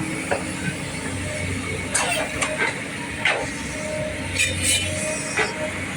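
Heavy vehicle or machinery engine running in a steady low drone, with several short sharp knocks scattered through it.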